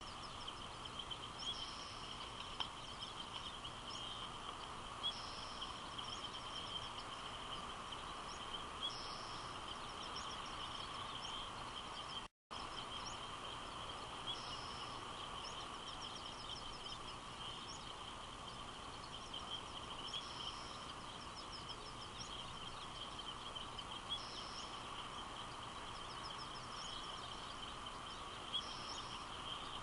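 Outdoor ambience of steady hiss with a constant high hum, and a small bird giving a short, high call every three to four seconds. The sound cuts out completely for a moment about twelve seconds in.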